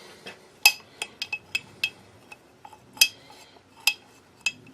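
Small steel parts and tools clinking against each other and on a metal bench: about ten sharp, irregular clinks with a short ring, the loudest under a second in and about three seconds in.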